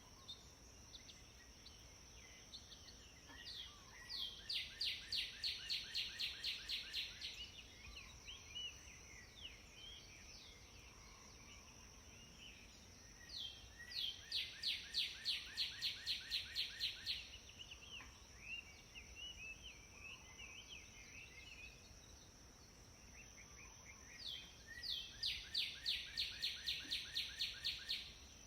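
Birds chirping: one bird sings a fast run of repeated chirps, about six a second for three to four seconds, three times over, with softer scattered chirps between the runs. A steady high-pitched hum runs underneath.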